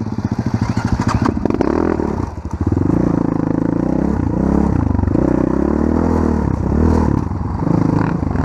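Off-road vehicle engine, putting unevenly at low revs for the first two seconds, then revving up and down repeatedly as it rides, with clattering knocks over rough ground.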